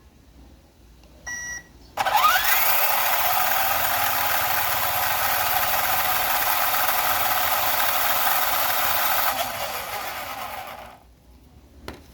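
Electric motor and gearbox of a 1/16-scale RC monster truck spinning its back wheels: a short beep, then about two seconds in the motor spins up with a rising whine and runs steadily for about seven seconds before winding down and stopping. A single click near the end.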